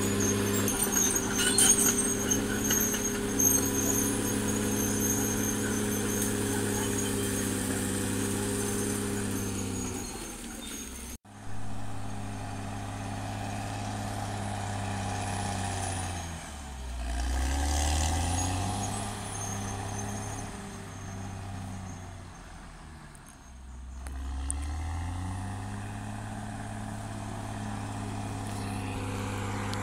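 Caterpillar D6R XL bulldozer's diesel engine running steadily, with sharp metallic clanks in the first few seconds. After a short break in the sound, the engine note twice drops and climbs back up, the revs sagging under load and recovering.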